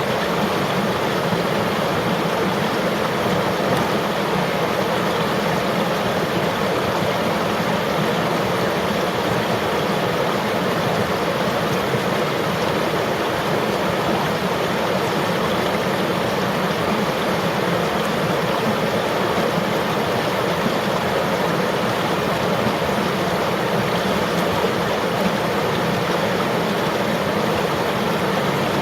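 River water flowing and rushing steadily, an even churn with no breaks or separate splashes.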